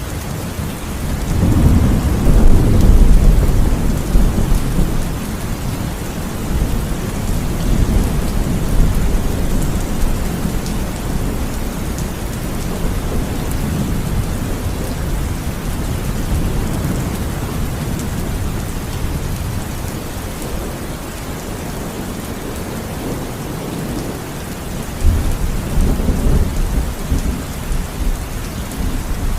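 Heavy, steady rain falling, with thunder rumbling low twice: a long roll peaking about two to four seconds in, and another near the end.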